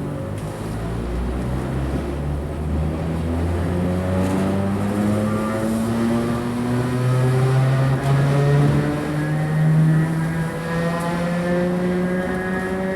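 English Electric traction motors of a 2EPB electric multiple unit whining under power as the train accelerates, the whine rising slowly and steadily in pitch over the rumble of the running train. The motor is very old and worn.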